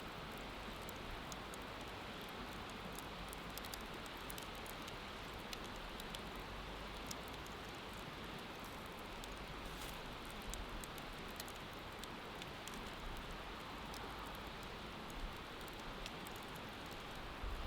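Wood bonfire crackling with frequent small, sharp pops, over a steady rushing noise of river water.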